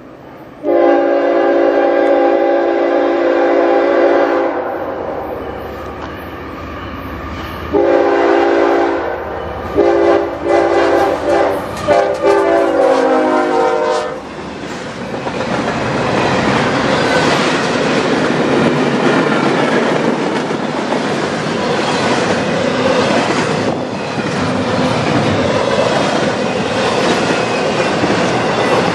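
A passing freight locomotive sounds its air horn, a chord of several notes: one long blast, then after a few seconds another run of blasts, some short, ending in a long one about fourteen seconds in. The train's double-stack container cars then roll by close at hand, wheels clicking over the rail joints.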